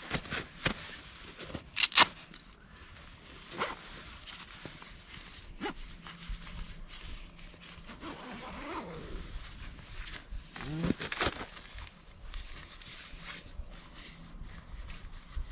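Nylon sleeping bags rustling and swishing as one is worked inside the other, with a couple of sharp loud scrapes about two seconds in.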